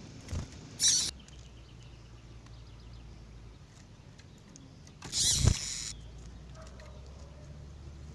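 Double-collared seedeaters (coleiros) giving brief sharp calls over a low steady hum: a short call about a second in, faint chirps just after it, and a longer rapid call from about five to six seconds in.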